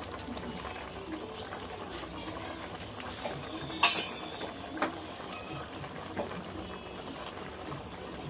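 Chicken with yogurt and spices sizzling in a pot while it is stirred with a metal spoon, which scrapes and knocks against the pan a few times, the loudest knock about four seconds in.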